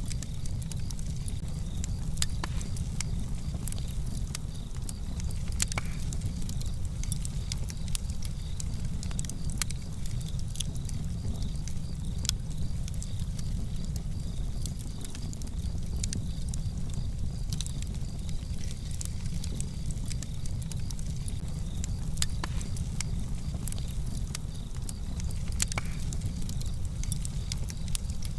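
Wood fire burning in a fireplace, crackling with scattered sharp pops and snaps at irregular intervals over a steady low rumble.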